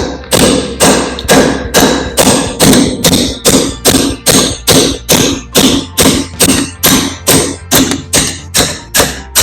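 A hammer striking a seized brake caliper slide pin again and again at a steady rate of about two and a half blows a second, driving the rusted pin out of its bore as it starts to come through.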